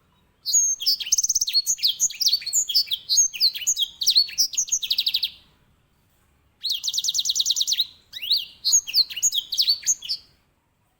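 Grey singing finch (edel sanger, Serinus leucopygius) singing loudly: two bouts of fast, varied song with quick sweeping notes and rapid rolling trills, separated by a pause of about a second.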